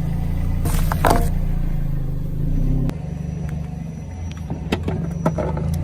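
An engine running steadily with a low hum, with a short crunching burst about a second in and a few sharp cracks later on.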